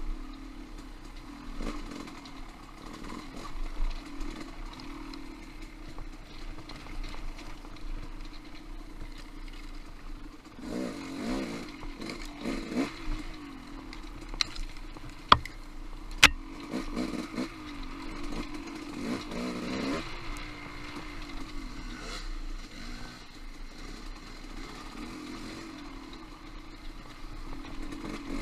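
Off-road motorcycle engine running steadily, swelling several times as the throttle is opened, with three sharp knocks about halfway through.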